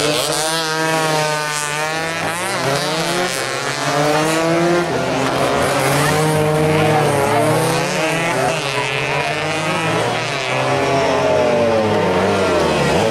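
Several racing motorcycle engines running hard at once, overlapping, their pitch rising and falling again and again as they accelerate and ease off.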